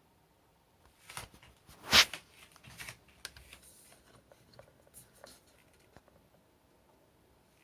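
Handling noises: a run of short clicks and knocks, the loudest a sharp knock about two seconds in, then fewer, smaller ticks.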